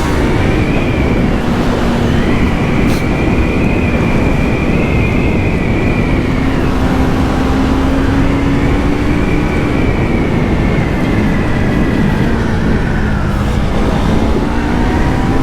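Yamaha MT-03's stock-exhaust parallel-twin engine pulling at high revs while riding, its pitch climbing slowly and dropping at upshifts about seven and ten seconds in. Heavy wind rush on the microphone.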